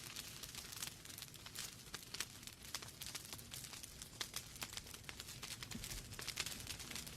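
Wood fire in a fireplace crackling: a dense, irregular run of small pops and snaps from burning logs over a low, steady rumble of the flames.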